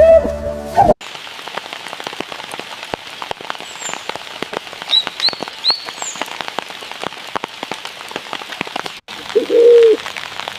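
Steady rain pattering, with many separate drips and a few short, quick bird chirps in the middle. A flute tune breaks off about a second in, and a dove starts cooing near the end.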